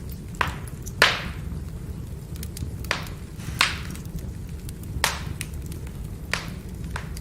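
Firewood burning: a steady low rumble of the fire with sharp crackling pops from the wood, about seven of them, the loudest about a second in, and faint small ticks between.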